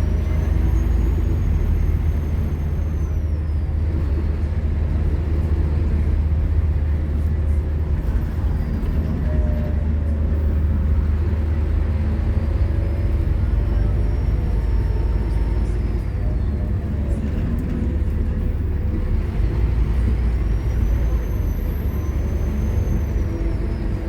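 Scania K230UB Omnilink bus with its five-cylinder diesel engine running steadily under load, a loud low rumble. A high whine rises, holds for a couple of seconds and falls away three times: at the start, in the middle and near the end.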